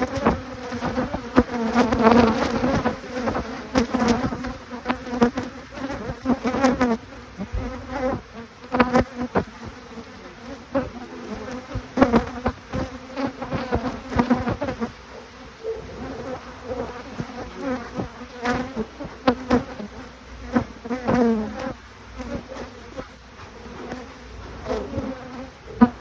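Honeybees buzzing around the hive, with single bees flying close past so the buzz swells and fades and bends in pitch as each goes by. Scattered sharp clicks are heard among the buzzing.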